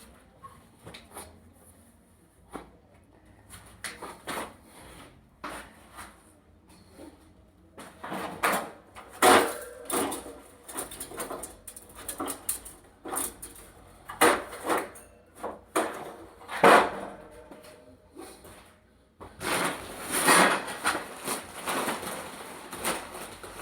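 Irregular knocks, clunks and clatter of objects being handled, with a denser stretch of scraping or rustling about twenty seconds in.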